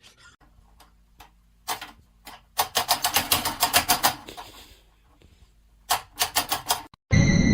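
A rapid series of sharp clicking taps, about six a second, in two runs separated by a short pause.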